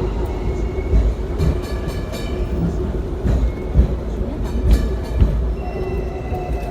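Hong Kong double-decker electric tram running, heard from on board: a heavy low rumble with scattered knocks and clatter from the wheels on the rails. A thin whine that slowly falls in pitch comes in near the end.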